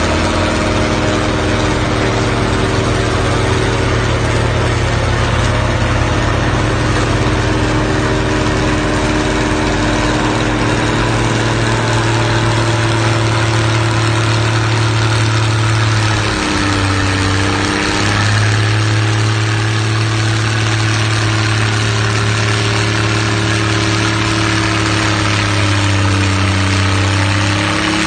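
Cummins diesel engine running at a steady speed. Its pitch drops briefly twice, once about halfway through and again near the end, before recovering.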